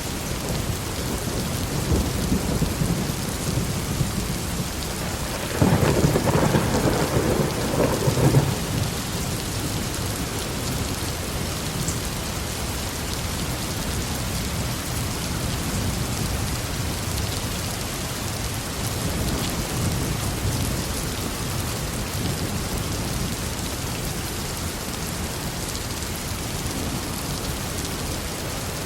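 Steady heavy rain with thunder: low rumbles early on and again past the middle, and a loud, sharper thunderclap about six seconds in that rumbles for roughly three seconds.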